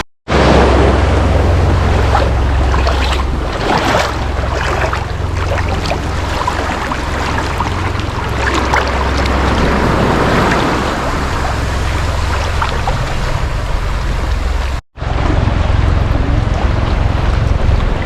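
Small sea waves washing in the shallows, with wind buffeting the microphone in a steady low rumble. The sound cuts out briefly at the start and again about fifteen seconds in.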